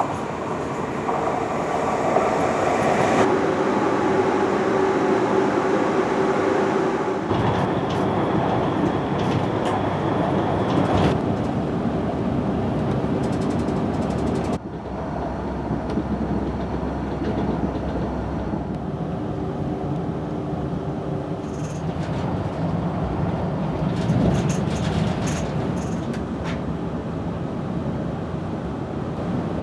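Passenger train running on the rails: a steady rumble with a hum of a few held tones and scattered high clicks from the wheels and track. The sound changes abruptly about halfway through.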